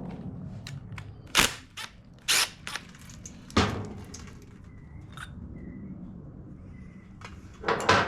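Sharp clinks and knocks of small metal parts and tools being handled while a small-engine carburetor is taken apart, with four louder knocks and lighter ticks between them.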